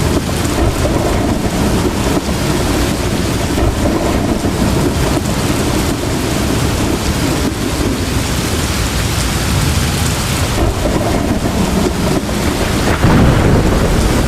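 Heavy rain pouring steadily, with low thunder rumbling; the rumble swells near the end.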